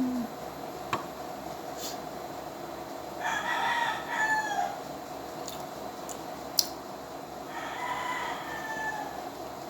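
A rooster crowing twice in the background, a clear crow about three seconds in and a fainter one near the end, with a couple of sharp clicks in between.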